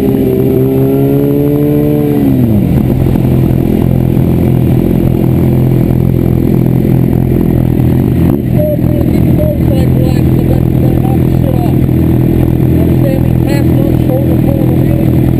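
Sport motorcycle engine with its revs dropping over the first two seconds or so, then running steadily at a low idle.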